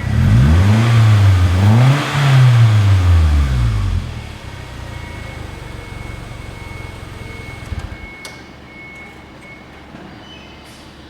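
Toyota Camry XV30 engine running through an aftermarket catback exhaust, revved twice in quick succession, its pitch rising and falling each time. It then settles to a lower, steady idle that drops off further with a click near the end.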